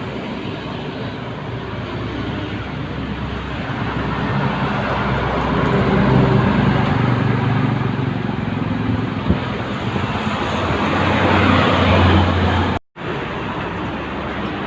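Highway traffic with a heavy truck's engine and tyres growing louder as it comes past. The sound cuts off abruptly near the end, and steadier road noise follows.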